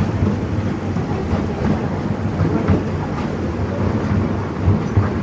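Theme-park railway train running along its track: a steady low rumble with irregular knocks from the wheels and carriages.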